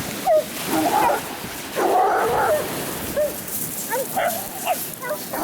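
Small dogs yipping and barking in short, repeated calls, with a louder burst about two seconds in, over the steady wash of sea surf.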